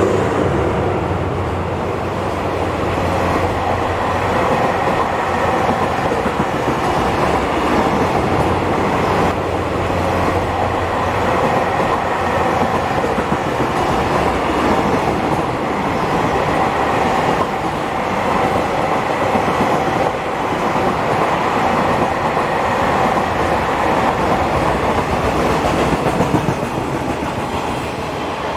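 A train running along the rails, with steady running noise and the clickety-clack of wheels over the rail joints.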